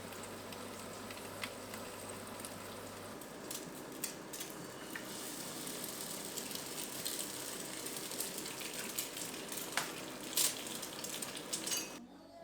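Breakfast food sizzling as it cooks in a hot pan: a steady hiss with occasional clicks and taps of utensils.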